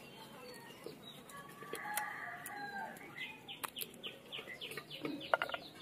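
Faint outdoor bird calls, with a quick run of short chirps about three seconds in. A few soft clicks come from small crabs' shells being pulled apart by hand.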